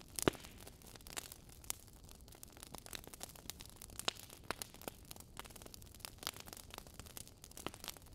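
Wood fire crackling in a fireplace: irregular sharp pops and snaps over a low steady hiss, with a louder pop near the start.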